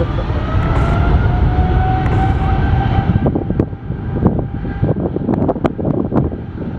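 Jet airliner's engines running: a low rumble with a slowly rising whine for about three seconds, after which wind buffets the microphone with irregular thumps.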